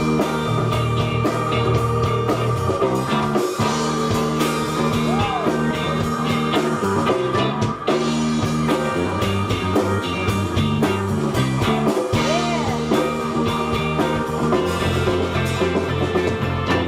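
Live band playing an instrumental rock-blues passage: drums and a stepping bass line under a lead solo with sliding, bent notes.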